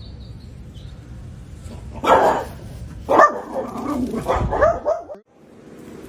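A dog barking: one loud bark about two seconds in, another about a second later, then a run of further barks that cuts off abruptly about five seconds in.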